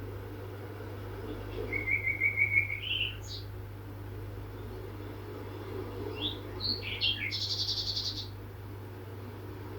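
Small songbirds singing: a rapid trill that rises at its end about two seconds in, then scattered chirps and a high buzzy trill near the end, over a steady low hum.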